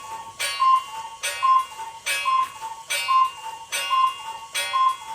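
Mechanical clock ticking steadily, an alternating tick-tock with a slight ring to each beat, roughly one pair of beats a second.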